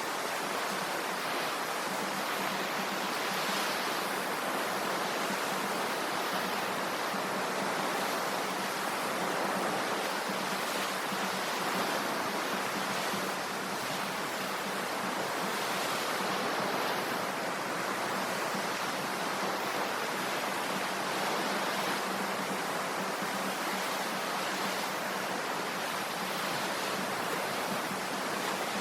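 Ocean waves washing on the shore: a steady rushing surf that swells and eases slightly.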